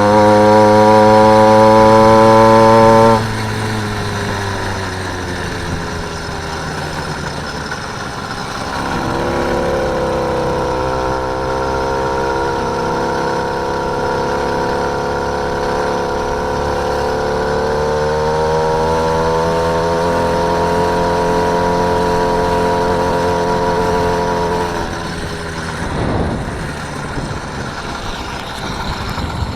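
Motorised bike's small engine running, held at steady high revs for about three seconds, then dropping off sharply. It picks up again with rising pitch twice, holds steady, and eases off near the end.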